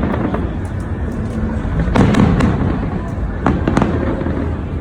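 Large fireworks display: a continuous low rumble of shell bursts, with clusters of sharp bangs about two seconds in and again about three and a half seconds in.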